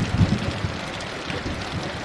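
Steady heavy rain hissing, with a low rumble of distant thunder that dies away within the first second.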